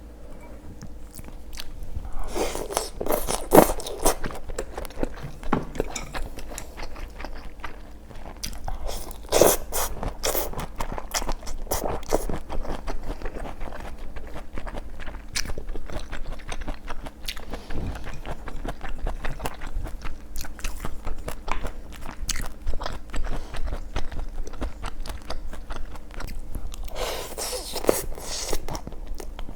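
A person eating close to the microphone: crunchy bites and steady chewing, with many short clicks and a few louder crunches.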